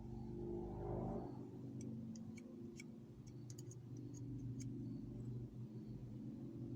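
Small, irregular metallic clicks from handling the parts of a partly disassembled Craftsman thumbwheel ratchet, about a dozen spread over a few seconds, over a steady low hum.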